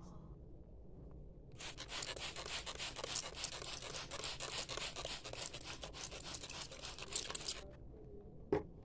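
Scratchy, crackling rustle lasting about six seconds, then a single sharp click near the end.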